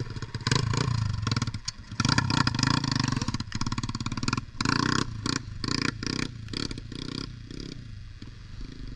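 Pit bike engine revving in surges as the rider rolls on the throttle to lift the front wheel into a wheelie. In the second half the throttle is blipped on and off in quick bursts, about two a second.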